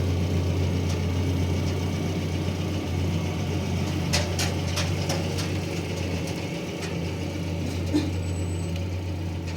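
Car engine idling steadily, with a few light clicks and knocks about four to five seconds in.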